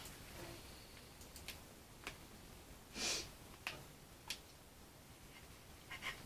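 Faint scattered clicks and taps of small parts and tools being handled on the balsa model airplane, with one louder short hissing sniff about three seconds in.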